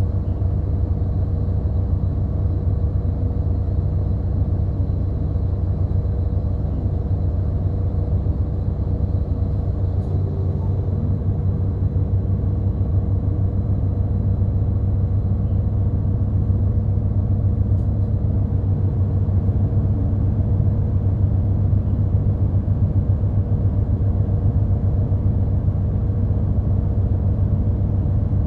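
Route bus running, heard from inside the passenger cabin: a steady low engine and road rumble.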